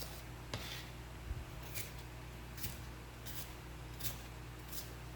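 Knife cutting a bell pepper on a cutting board: short, crisp cuts about once every second.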